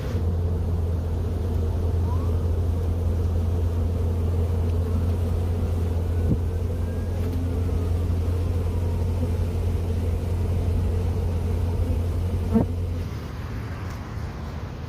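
A steady low engine rumble, like a vehicle idling close by, which cuts off suddenly near the end. There are a couple of brief clicks along the way.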